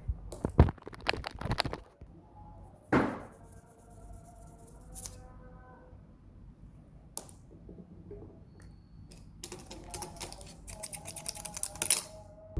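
Irregular clicks and knocks of objects being handled close to the microphone: a cluster at the start, a single louder knock about three seconds in, and a dense run of quick clicks near the end, with faint music behind.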